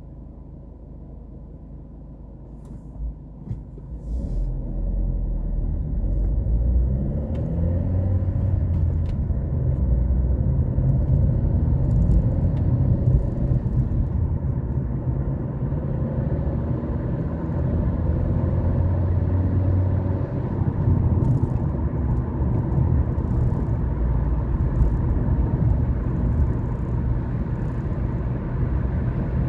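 Car moving off: quiet for the first few seconds, then about four seconds in the engine and tyre rumble rise sharply and stay loud, with the engine note climbing in pitch as it accelerates.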